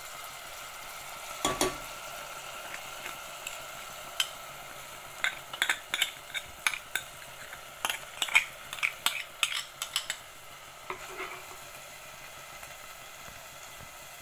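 Washed split moong dal added to hot oil and masala in a steel pot, sizzling steadily, with a metal spoon scraping and clinking against the bowl and pot in a quick run of clicks between about five and ten seconds in.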